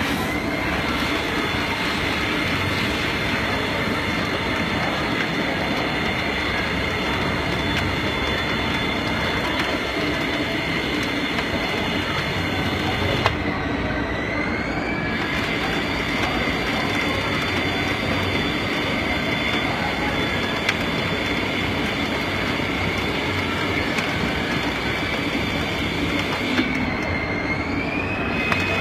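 Haas ST-20SSY CNC lathe machining a part: steady machine noise with a high whine that glides up a little in pitch twice, about halfway through and near the end.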